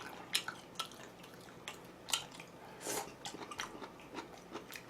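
A person chewing food with irregular wet clicks and smacks, with louder bites about two seconds in and again about three seconds in.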